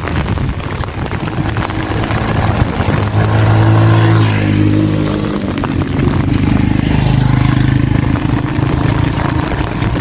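A motor vehicle engine passes through heavy rain. Its hum grows to its loudest about four seconds in, then drops in pitch and eases off as it goes by, with steady rain hiss throughout.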